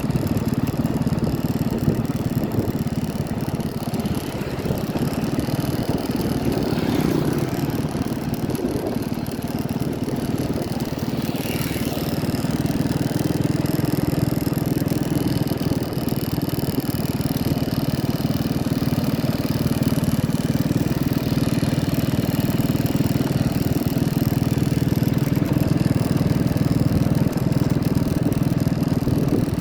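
A vehicle engine running steadily, a little louder after about twelve seconds.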